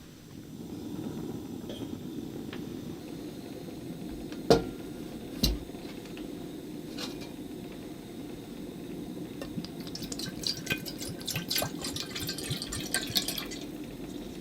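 Steady watery sound of liquid in a small space, with two sharp knocks about a second apart a third of the way in and a run of light clinks near the end.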